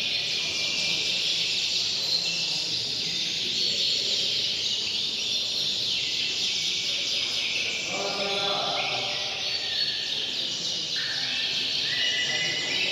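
Domestic canaries singing continuously, several at once, in fast overlapping trills and rolling notes.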